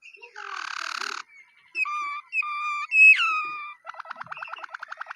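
Waterslager canary singing: a rough, buzzy phrase, then two held whistled notes, a loud falling note about three seconds in, and a fast rattling trill toward the end.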